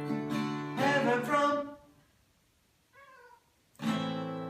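Cat meowing along to an acoustic guitar: bending meows over ringing guitar notes, which die away about a second and a half in, a short faint meow about three seconds in, then the guitar strums again near the end.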